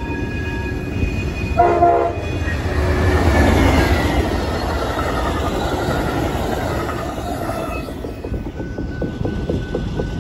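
Amtrak passenger train passing at speed: a short horn blast about two seconds in, then the rushing noise of the locomotive and cars going by. Near the end it eases into a rhythmic clicking of wheels over the rail joints.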